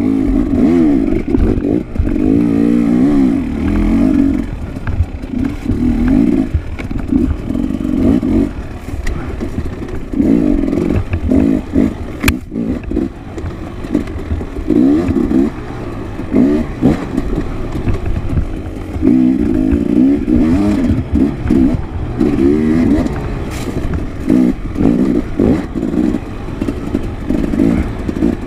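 Enduro dirt bike engine being ridden hard, revving up and falling back again and again in short bursts, with knocks and rattles throughout.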